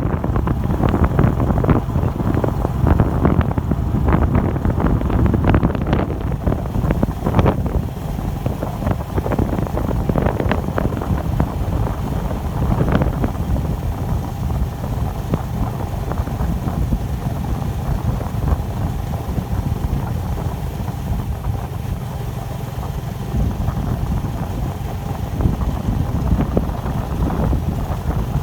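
Wind buffeting the microphone on a moving bicycle, a steady low rumble throughout. Many short knocks and rattles come in the first half and thin out after about 13 seconds, when a faint steady hum can be heard under the wind.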